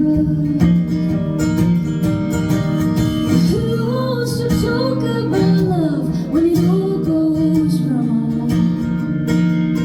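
Live pop-folk song: guitar playing steady chords while a woman sings a drawn-out, wordless-sounding vocal line that slides up and down in pitch through the middle.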